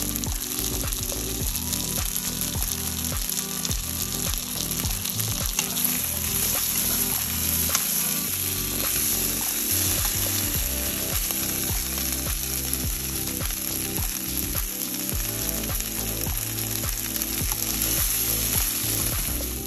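Chicken wings sizzling as they fry in oil in a pan, a steady hiss with frequent small crackles and pops.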